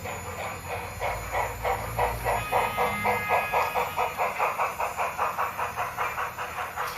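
Steam exhaust chuffing from a model Union Pacific Big Boy locomotive's sound effects: an even, quick beat of about four chuffs a second that grows louder about a second in, over a low steady rumble.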